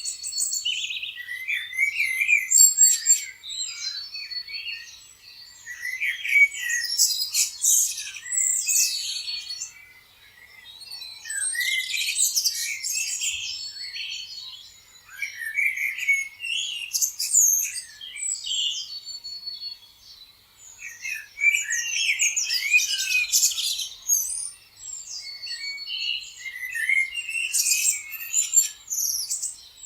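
A chorus of many small birds chirping and trilling at once, in overlapping high calls that swell and ease every few seconds with short lulls between.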